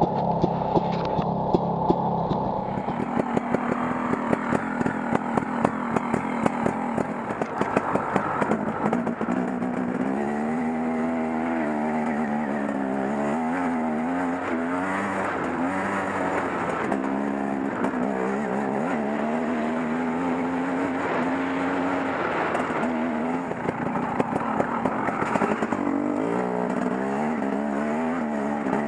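KTM Freeride 250cc dirt bike engine running under load, its pitch rising and falling with the throttle, along with frequent short knocks.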